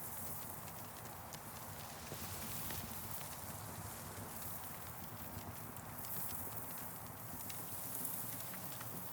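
Campfire crackling with scattered sharp pops over a steady rush of wind through trees, the hiss swelling a little around six and eight seconds in.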